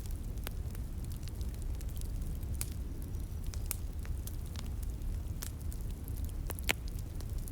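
Wood fire crackling, with sharp irregular pops and one louder pop near the end, over the steady low rush of a flowing stream.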